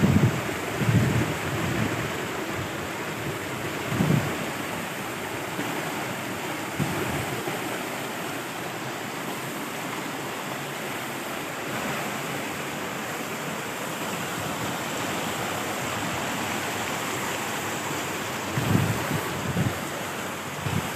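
Steady outdoor rushing noise, with low gusts of wind buffeting the microphone in the first few seconds and again near the end.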